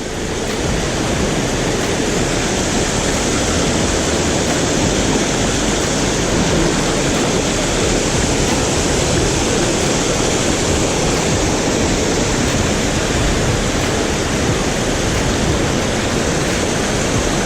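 Waterfall on a river, water pouring and splashing in a steady, loud rush close by.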